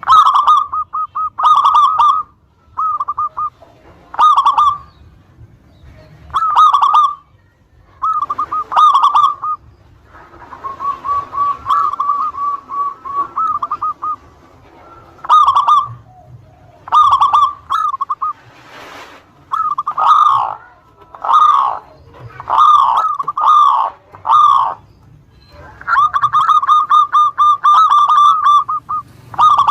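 Zebra dove (perkutut) cooing over and over in short phrases of quick ringing notes, with longer rolling runs of rapid notes near the middle and again near the end.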